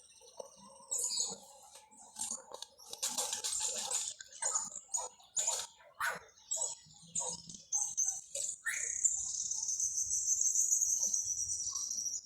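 Songbirds calling: many short, high chirps in quick succession, then about nine seconds in a long, high trill that carries on.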